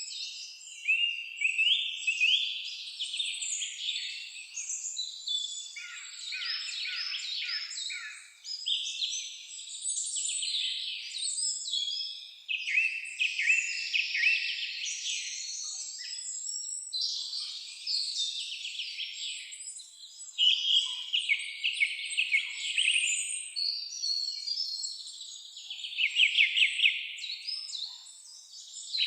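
Several songbirds singing at once in a dense, overlapping chorus of chirps, warbled phrases and rapid trills.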